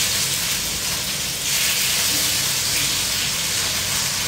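Onions sizzling in hot oil in a wok, a steady frying hiss.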